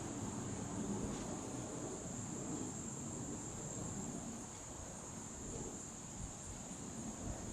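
A steady, high-pitched chorus of insects droning without a break, over a low, uneven rumbling noise.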